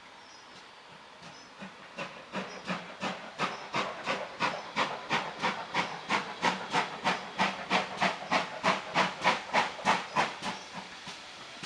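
Steam locomotive exhaust beats: the chuffs start up, quicken to about three or four a second and grow louder, then die away about ten seconds in.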